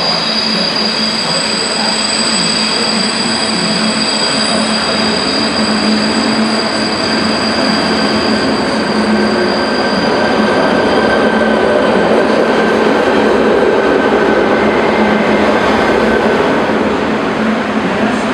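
CityElefant (ČD class 471) double-deck electric commuter train arriving and running past along the platform, with a steady high-pitched squeal that fades out about two-thirds of the way through. The running noise grows louder around the middle as the cars pass close by.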